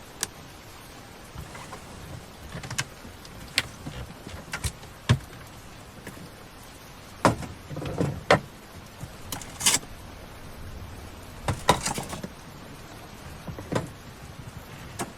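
Irregular knocks, clicks and clattering, like objects being handled and set down, over a steady low background hiss; a few louder clusters of knocks come about halfway through.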